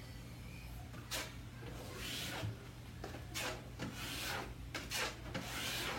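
Drywall knife scraping quick-set joint compound into screw holes on a drywall wall, in short strokes about once a second.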